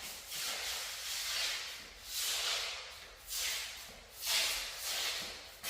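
A shoe sole sliding and scuffing across newly laid floor tile in repeated hissing strokes, about one a second, testing for uneven tile edges (lippage).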